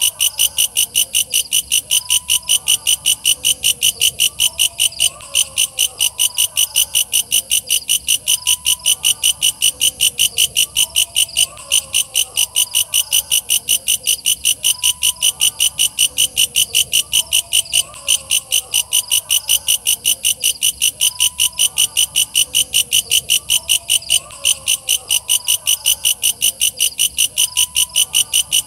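Walang kecek katydid calling: a fast, even train of loud, shrill chirps, about three or four a second, with a couple of brief pauses.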